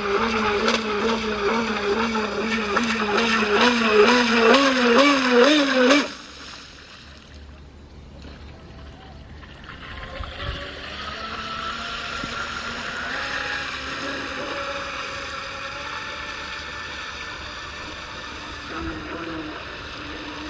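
4074-size 2000 kv brushless electric motor of an RC surfer spinning its propeller, a strong whine whose pitch wavers up and down as the throttle is worked and rises just before it cuts off about six seconds in. After that only quieter steady background noise remains, with a faint high tone.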